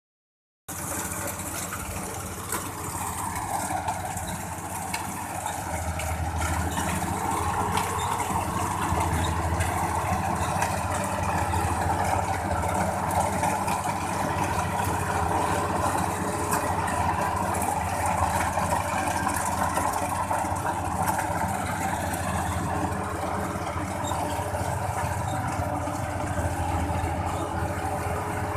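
Rice combine harvester's engine running steadily, a continuous low hum under broad mechanical noise, starting suddenly just under a second in.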